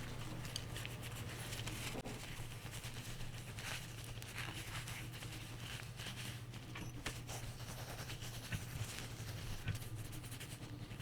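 Light rubbing, scraping and small clicks of a 1911 pistol's parts being wiped and handled during cleaning, scattered over a steady low hum.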